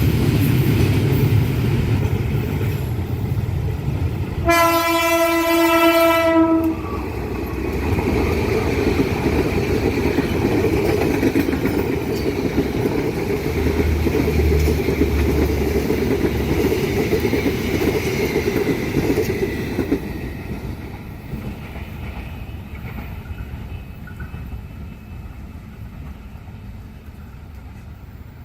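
A train passing close by, its wheels and cars making a steady rushing rumble. About four and a half seconds in, the locomotive horn sounds once, a single steady note held for about two seconds. The passing noise dies away over the last several seconds.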